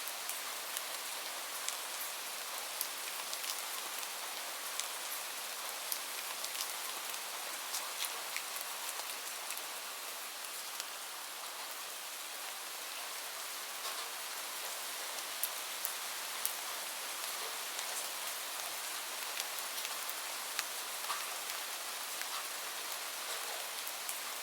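Steady gentle rain: an even hiss of falling drops, with scattered sharp ticks and pops throughout.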